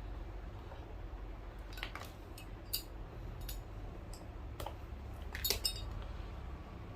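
Scattered light clicks and taps of small tools and objects being handled during shoe work, with a quick cluster of clicks about five and a half seconds in, over a low steady hum.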